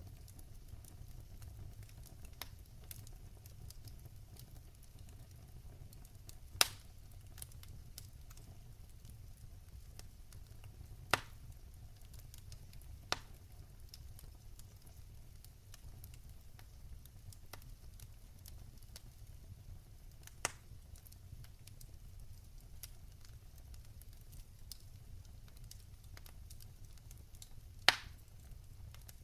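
Wood fire burning in a fireplace: a steady low rumble of the flames with constant faint crackling and five sharp, separate pops, the loudest near the end.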